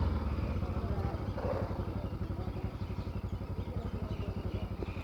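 Motorcycle engine idling with an even, rapid firing beat, a little louder in the first second before settling steady.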